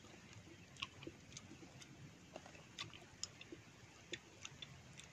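Faint, irregular mouth clicks and smacks of someone chewing fruit.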